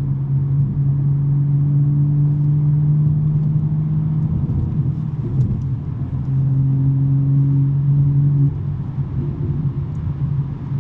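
BMW M3's S58 twin-turbo inline-six with a non-resonated J-pipe exhaust, droning at a steady pitch at cruising speed. The drone eases off about four seconds in, comes back about two seconds later, and drops away again near the end.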